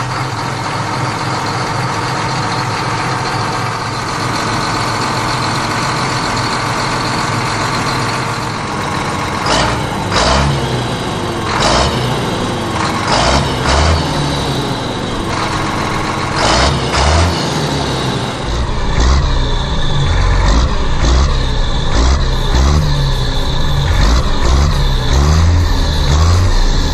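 Tractor engine running with its revs rising and falling, with a few knocks partway through; from about eighteen seconds in it turns to a deeper, heavier chugging.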